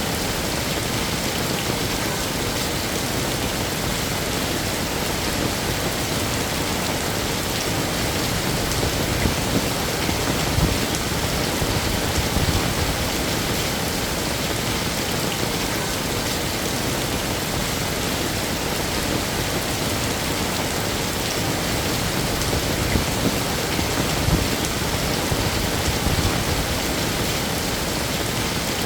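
Heavy rain falling steadily, an even, unbroken rush of drops on hard surfaces.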